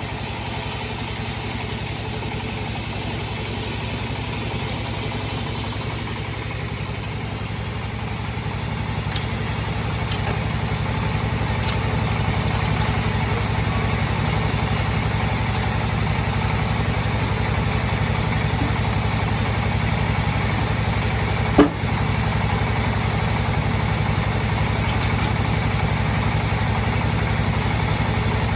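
Sawmill bandsaw machine running steadily with a low, even hum, growing slightly louder about ten seconds in. There is one brief sharp blip near the end.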